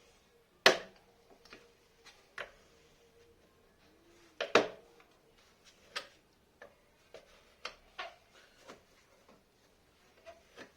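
Irregular clicks and knocks of hand tools and small metal parts being handled, with two louder knocks, about a second in and about halfway through.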